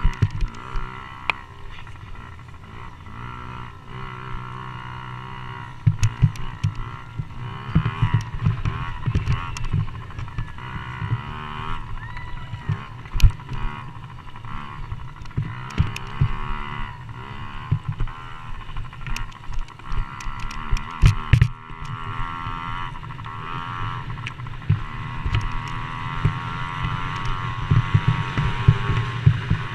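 Motocross bike engines racing on a dirt track, several at once, their pitch rising and falling as riders rev and back off through the corners, with scattered sharp knocks.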